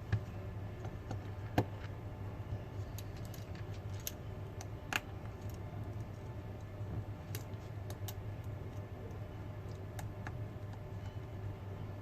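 Scattered light clicks and taps of small phone parts and tools being handled, over a steady low hum.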